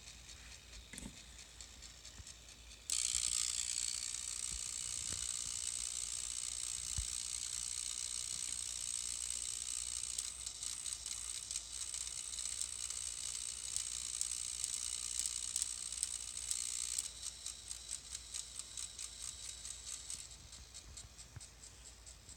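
Denon X1800 Prime DJ mixer putting out a strange electronic buzzing, a fast crackling rattle pitched high. It jumps suddenly louder about three seconds in, falls back around seventeen seconds into a pulsing crackle, and drops lower again near the end. The noise is a fault in the mixer that starts after boot and that the uploader sent back for repair.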